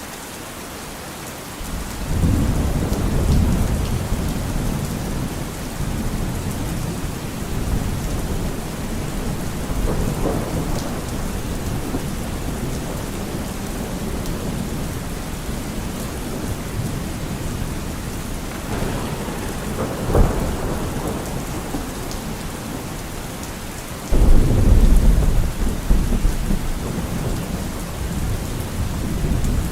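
Steady heavy rain with rolling thunder: a deep rumble swells in about two seconds in and rolls on, a sharper thunderclap comes about two-thirds of the way through, and the loudest rumble breaks in near the end.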